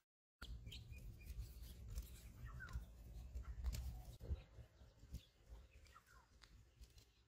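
Faint bird chirps, a few short calls, over a low rumble of wind, with a few light clicks.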